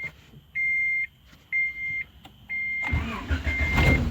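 A car's warning chime beeping steadily about once a second, then about three seconds in the 1986 Honda Accord's A20A3 four-cylinder engine cranks briefly and catches. This is its first startup on a coil-on-plug ignition conversion, and it keeps running.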